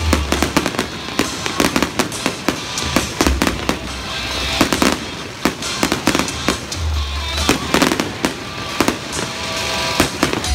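Fireworks display: a dense, irregular run of bangs and crackles from shells bursting overhead, with music with a heavy bass playing along.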